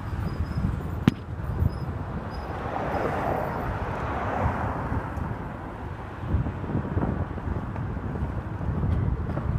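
Hyundai Sonata NF driving on a street: a steady low rumble of road and wind noise, with a sharp click about a second in and a rushing swell that rises and fades in the middle.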